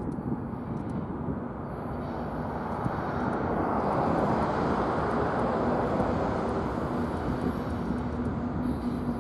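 An approaching diesel freight train: a steady rumble with a low, even engine drone, swelling a little about halfway through.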